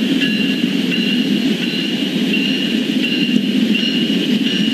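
GE ES44AC (GEVO) diesel locomotive approaching at the head of a passenger train: a steady low rumble of engine and wheels on the rails, with a thin high tone that comes and goes above it.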